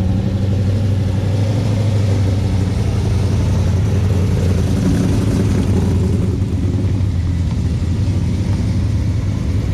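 A car engine running steadily at a low, even speed, with a deep steady hum that changes little.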